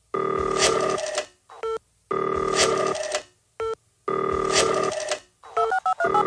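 Telephone ringing three times, each ring lasting about a second and starting about two seconds after the last, with short electronic beeps between the rings and a quick run of stepped beeps near the end. It sounds like a ringtone sample played in an electronic dance music mix.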